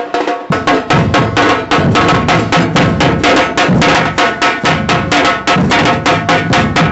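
Drums, snare and bass drum, beating a fast, steady rhythm that starts about half a second in.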